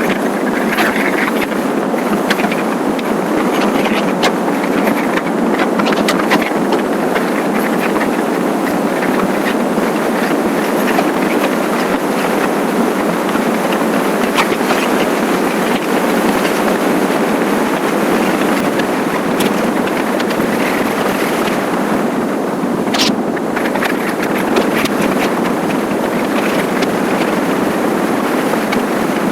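Steady rush of wind and road noise on the microphone of a moving motorcycle, with one brief sharp click about three quarters of the way through.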